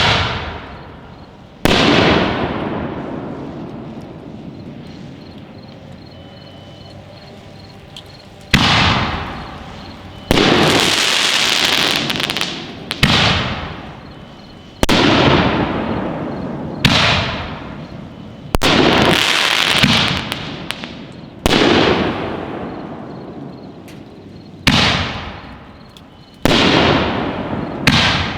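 Five-inch aerial firework canister shells bursting one after another, about a dozen loud booms a few seconds apart, each followed by an echo that dies away slowly. A couple of the breaks are followed by a longer hissing crackle.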